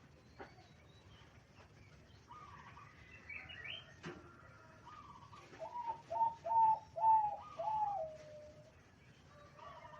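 Zebra dove with a mid-pitched voice cooing: a phrase of about five quick rolling notes ending in a longer, lower note, starting about five and a half seconds in. Other birds call faintly before it.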